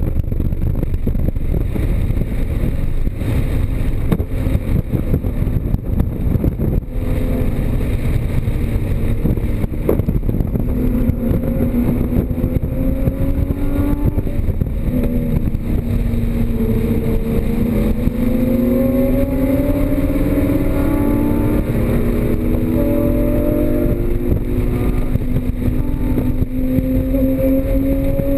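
Porsche Cayman GTS flat-six engine heard on board at speed over heavy road and wind noise. Over the second half its pitch climbs steadily under acceleration, with a few drops and climbs as it shifts gears.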